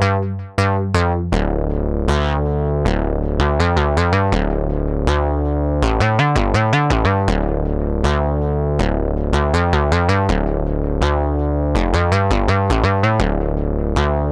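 Software synthesizer from Arturia V Collection 9 playing a busy pattern of short, plucked notes that fade quickly, over held bass notes, starting suddenly at the very beginning.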